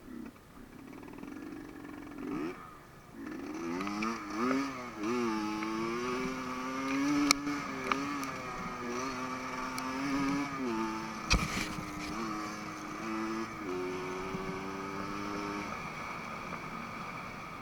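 Enduro dirt bike engine revving up and down several times, then running at a steadier speed with small changes in pitch; two sharp knocks, about seven and eleven seconds in.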